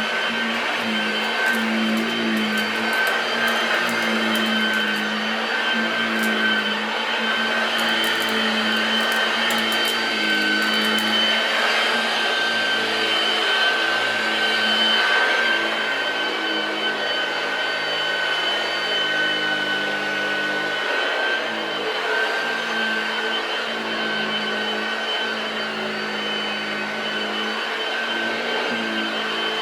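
Hoover Model 1348 'Junior' upright vacuum cleaner running steadily, a continuous motor whine and air rush, with faint scattered ticks during the first ten seconds or so.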